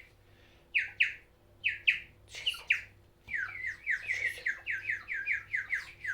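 A bird whistling: short falling chirps, at first in spaced pairs, then a fast run of about four a second from about three seconds in.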